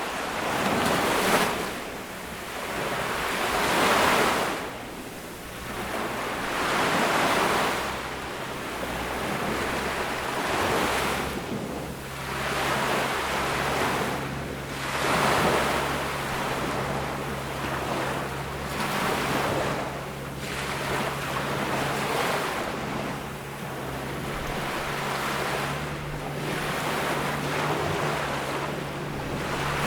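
Ocean waves breaking and washing up on a sandy beach, the surf swelling and falling back every few seconds.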